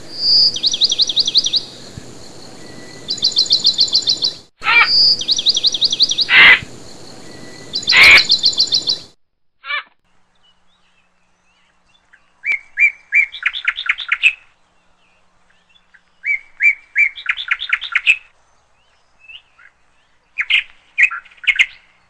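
Birds singing: repeated rapid trills over a steady hiss for about the first nine seconds, then, after a short pause, several runs of quick chirps with gaps between them.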